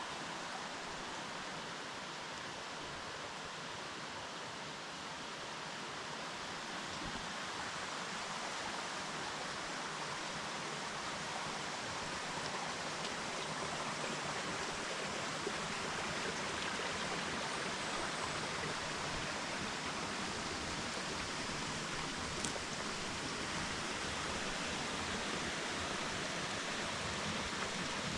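Steady rushing of a forest stream's flowing water, growing a little louder over the first dozen seconds and then holding even.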